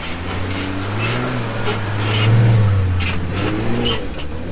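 Jeep Wrangler engine revving hard under load as it drives up a soft sand bank, its tyres spinning and throwing sand. The engine note climbs to its loudest about two and a half seconds in, then eases off, with scattered sharp clicks over it.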